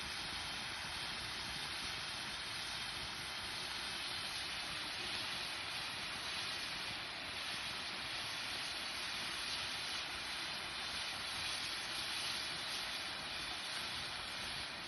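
Steady, unbroken hissing noise with no clear events in it.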